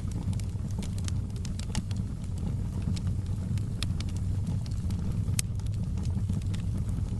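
Fire burning in a fireplace: a steady low rumble of flame with scattered sharp crackles and pops, the loudest pop about five seconds in.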